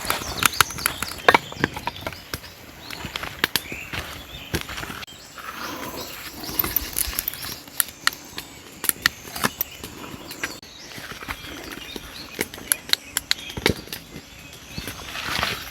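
Campfire of wet split firewood crackling, with many irregular sharp pops.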